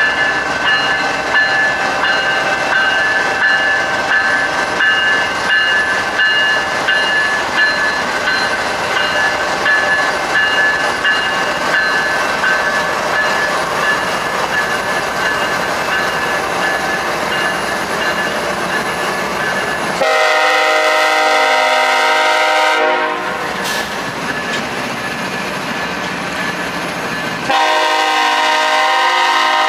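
BNSF diesel-electric locomotive and passenger cars rolling slowly past, with a steady engine drone and wheel noise. The locomotive's air horn then sounds two long blasts: one about twenty seconds in, lasting about three seconds, and another starting near the end.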